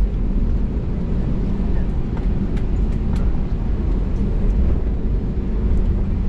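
Steady low rumble inside the cabin of an Airbus A320neo taxiing on the ground, the engines at low power along with rolling noise, with a few faint clicks.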